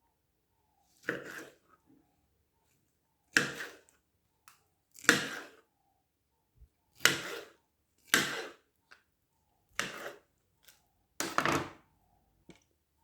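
A series of seven sharp kitchen knocks, each trailing off over about half a second, spaced one to two seconds apart.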